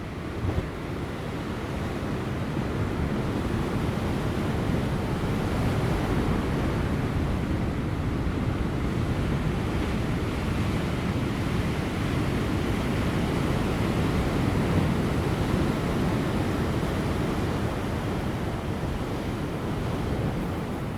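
Large ocean waves crashing on offshore rocks: a steady, deep surf roar that builds over the first few seconds and then holds.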